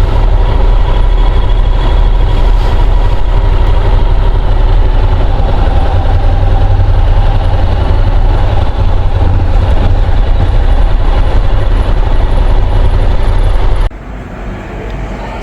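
Honda NC750 DCT motorcycle being ridden at speed, its engine running under a loud, steady rush of wind on the rider's microphone. The noise drops sharply about fourteen seconds in.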